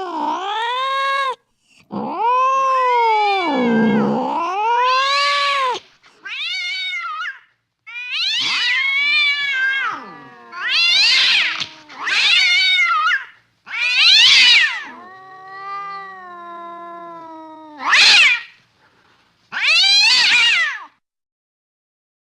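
Cat yowling and meowing: a string of about ten drawn-out, wavering calls that rise and fall in pitch, the longest lasting several seconds, with short gaps between them.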